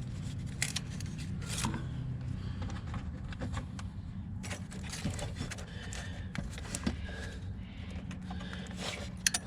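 Light scraping and scattered small clicks of hands working a gear-shift cable end and its washer onto the linkage shaft, over a low steady hum.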